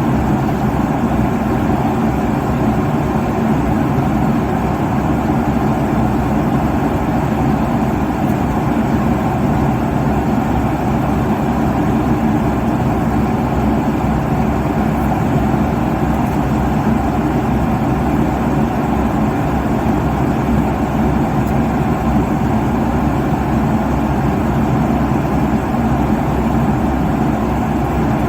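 Steady airliner cabin noise in cruise: an even rush of airflow and engine drone with a low hum, unchanging throughout.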